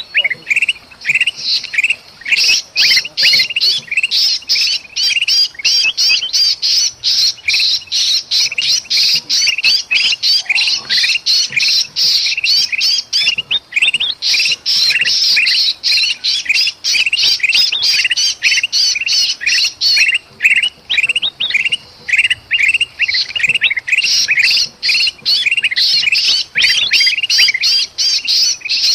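Agitated bulbul (kutilang emas) chatter mixed with the distress squawks of a trapped bulbul: a dense run of many short, harsh calls. These alarm and distress calls are used to lure other birds in. The calls thin briefly twice, around the middle and about two-thirds of the way through.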